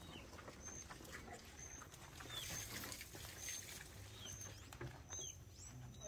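Small birds chirping faintly: a short high peep about once a second, with falling chirps between, over a low background rumble.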